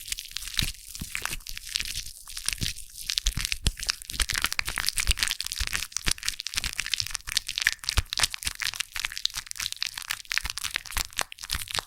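Foam crackling and popping close to the microphone: a dense, continuous stream of fine crackles.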